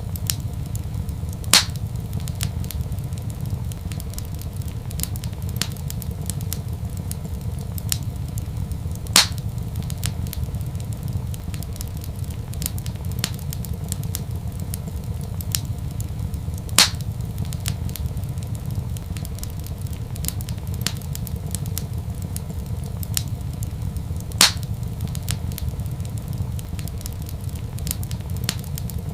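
Wood fire in a fireplace crackling over a steady low rumble, with many small ticks and a louder sharp pop about every seven and a half seconds, four in all.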